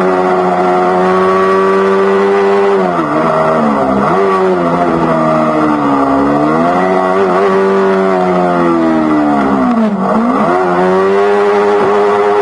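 Yamaha R3's parallel-twin engine through an Akrapovic GP slip-on exhaust while riding, the engine note holding steady and then dipping and climbing back in pitch several times as the throttle is eased and reopened, with the deepest drop and pull-up about ten seconds in.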